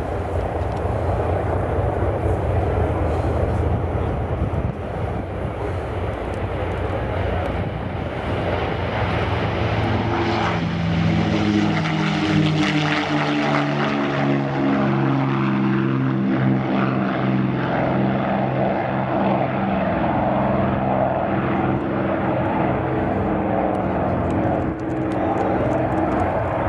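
Piston engines of P-51 Mustang warbirds running: a dense low drone at first, then from about ten seconds in a clear set of engine tones that shift up and down in pitch.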